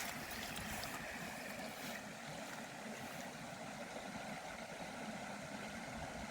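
Steady faint outdoor background noise: an even hiss with no distinct events.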